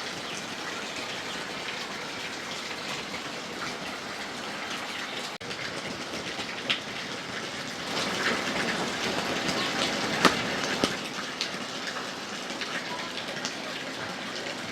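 Steady rush of water with many fine ticks through it, a little louder for a few seconds past the middle.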